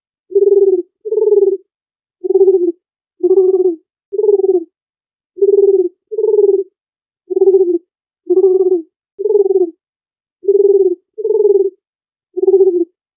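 Dove cooing: thirteen short low coos in an even series, roughly one a second, each about half a second long with clean silence between.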